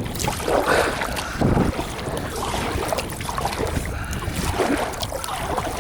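Kayak being paddled: water splashing at irregular paddle strokes, with wind on the microphone.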